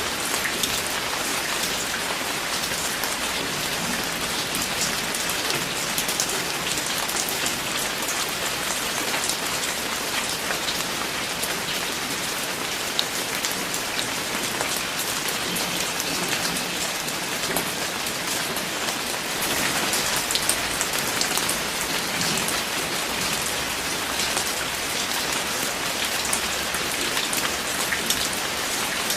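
Steady rain falling, a dense hiss of many raindrops with fine individual drop ticks throughout.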